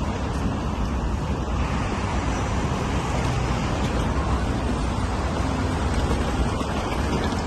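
Steady city street background noise: an even low rumble with a broad hiss, like passing road traffic, with no single distinct event.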